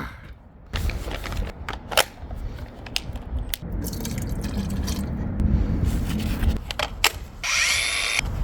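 Clicks, knocks and scraping of objects being handled, with a short rising whine and hiss near the end.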